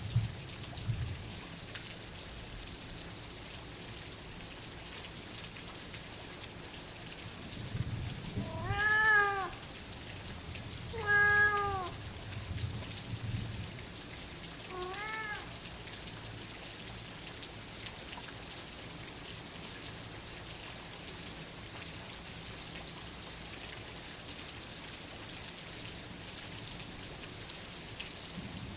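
Steady rain with a domestic cat meowing three times about a third of the way in: two loud meows close together, then a fainter one a few seconds later. Low thunder rumbles softly near the start and around the meows.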